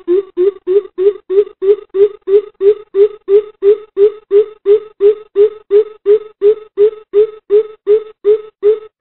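Coucal (bìm bịp) calling: a long, even series of deep hollow hoots, about three a second, each note rising slightly in pitch.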